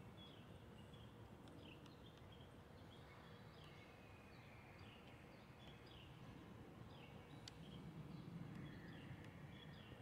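Near silence outdoors: faint low background noise with scattered faint bird chirps, and a single faint click a little past the middle.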